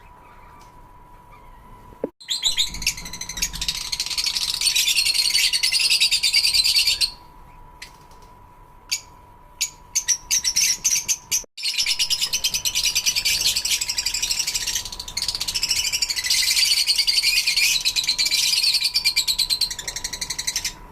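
Lovebirds chattering in two long bouts of rapid, high-pitched chirps, with a few single chirps between the bouts.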